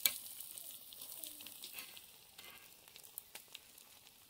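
Egg omelette sizzling in a flat iron pan, with a metal spatula clinking and scraping against the pan now and then. The loudest clink comes right at the start.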